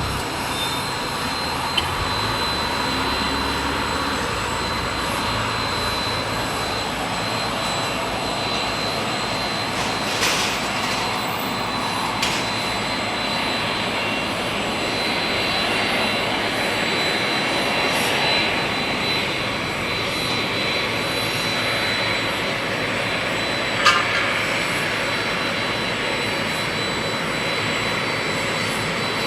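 Jet airliner engines running steadily: an even rushing noise with a constant high whine. There is a short sharp click about three-quarters of the way through.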